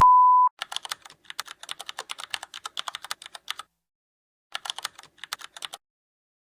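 A short steady electronic beep, then two runs of rapid, crisp computer-keyboard typing clicks with a pause between them.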